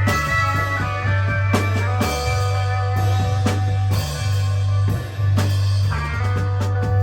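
A live rock band playing an instrumental passage of psychedelic rock: electric guitar over a prominent bass line, with a drum kit keeping a steady beat.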